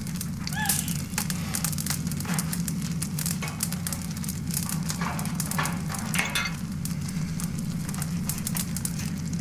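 Fire crackling with many small pops over a steady low rumble, as from a burning building. A brief high cry sounds just after the start.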